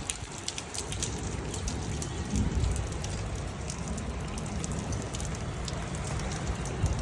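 Rain falling steadily, with many separate drops ticking on surfaces.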